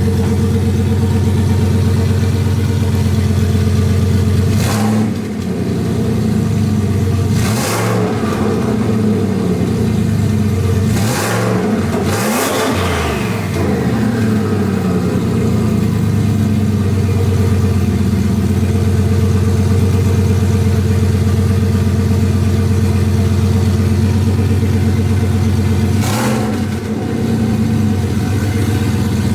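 Turbocharged 2018 Ford Mustang GT's 5.0 V8 running steadily. Its pitch dips and rises briefly about five seconds in, near eight seconds, around twelve seconds and again near the end.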